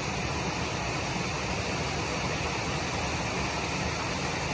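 Steady rushing of flowing water: an even, unbroken hiss.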